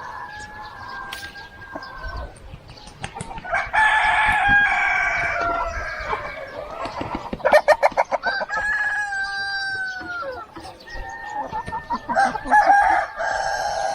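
Roosters crowing three times in long, drawn-out crows, with hens clucking throughout.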